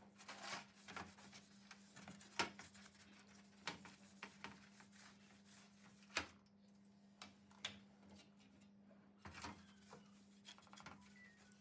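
Faint, irregular clicks and scraping of hand work on small metal parts, with a single sharper click about two and a half seconds in and another about six seconds in, over a faint steady low hum.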